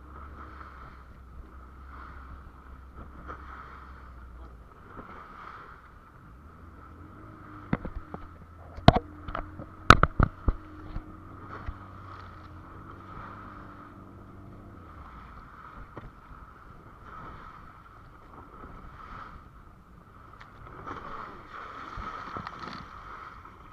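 Small fishing boat on rough sea: a steady wash of wind and water with a low hum, broken by a cluster of sharp knocks about eight to ten seconds in.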